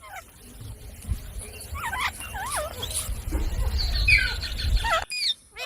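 Rose-ringed (Indian ringneck) parakeets chirping: a run of short, up-and-down calls over a low rumble, cutting off abruptly about five seconds in, with another call starting near the end.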